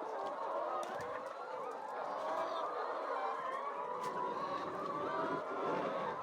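A flock of chickens clucking and calling together, many overlapping voices in a steady chorus, with a few faint clicks.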